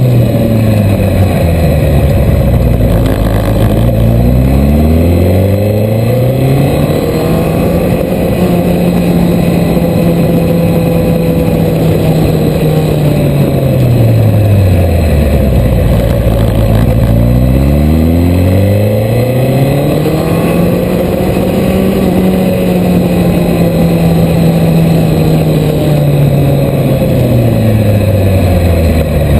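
Suzuki GSX1300R Hayabusa inline-four engine heard from on board while riding. Twice it drops in pitch as the bike slows, then climbs again as it accelerates away and holds a steady note, falling once more near the end.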